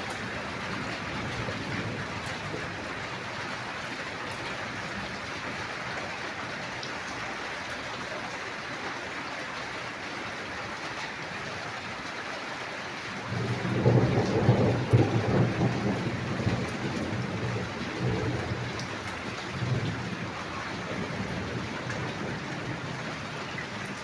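Steady rain hiss, with a roll of thunder breaking in about halfway through. The thunder is loudest for a couple of seconds, then rumbles off in a few weaker rolls.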